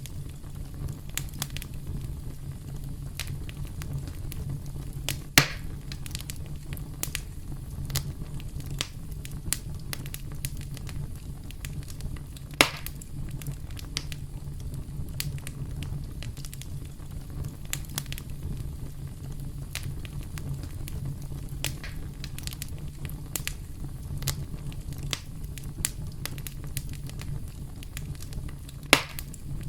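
Wood fire crackling: a steady low rumble of flame with a constant patter of small crackles, and three louder pops of burning wood, about 5, 12 and 29 seconds in.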